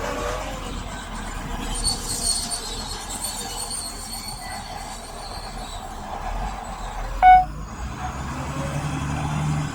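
Heavy earthmoving machinery working: a diesel engine running under a steady rumble, with high metal squealing early on and a short, loud pitched tone about seven seconds in.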